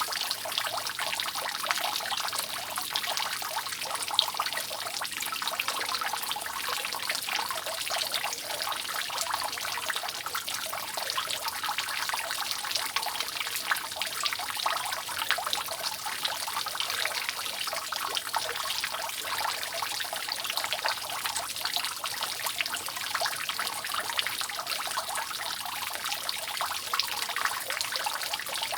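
Rainwater dripping steadily off a roof: a dense, unbroken patter of many drops with a trickling wash beneath.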